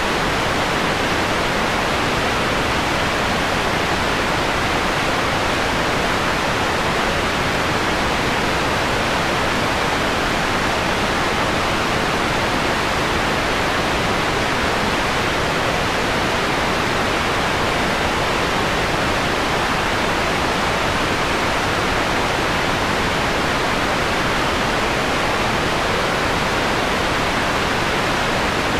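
Steady synthetic white noise, an even hiss with most of its energy in the middle and upper-middle range and the top end already rolled off toward a mellower tone.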